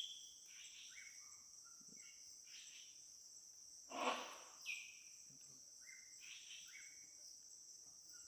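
Steady high-pitched chirring of insects, with short whistled bird notes repeating over it and one louder, sudden sound about four seconds in.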